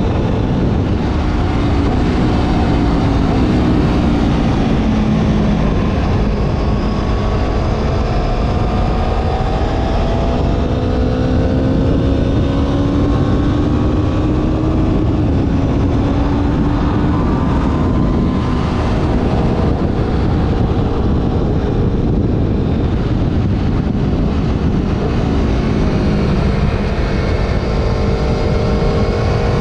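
Motorcycle engine pulling under load on the move, its pitch rising slowly through the gears with a few drops at shifts, under heavy wind rumble on the helmet-mounted microphone.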